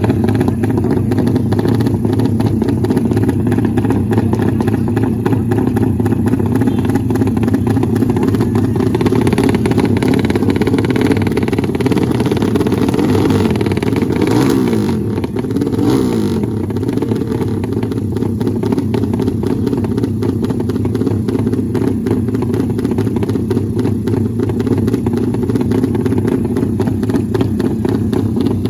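Drag-race motorcycle engines running loudly and steadily, with one engine note sweeping down and back up about halfway through.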